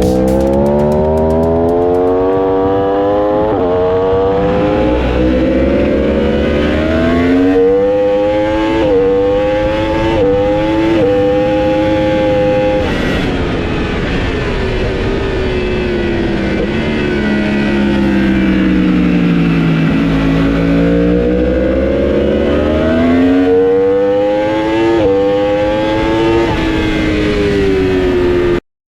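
Superbike engine heard onboard at full throttle. The pitch climbs with several quick upshifts, then falls away slowly as the bike slows for a corner. It climbs again through more upshifts and cuts off abruptly just before the end.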